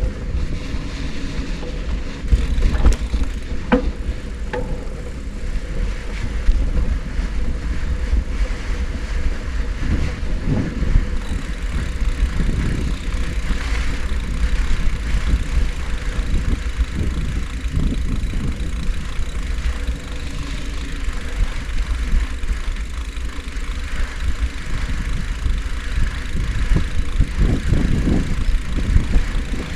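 Riding noise of a bicycle: wind rumbling steadily on the microphone, with tyre noise and scattered knocks and rattles.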